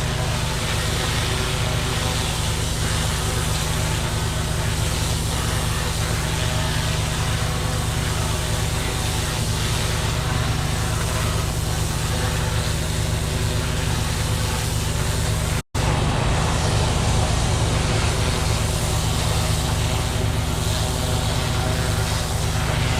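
Pressure washer running steadily while a turbo nozzle blasts moss off clay roof tiles: an even engine hum under the hiss of the water jet. The sound drops out for an instant about two-thirds of the way through.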